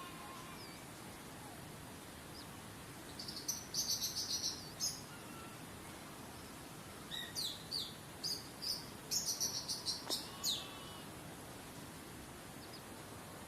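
A songbird sings two phrases of rapid, high chirping notes, one about three seconds in and a longer one about seven seconds in, over a steady rush of flowing water.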